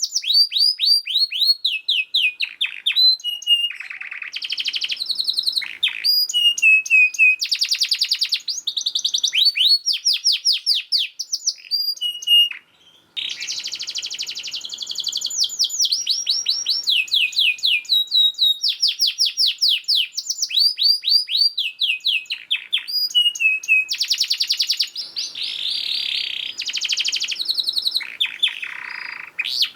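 Domestic canary singing a long, fast, tightly packed song of rapid trills: runs of quick repeated down-slurred notes and buzzy rolls, with a brief break about halfway through.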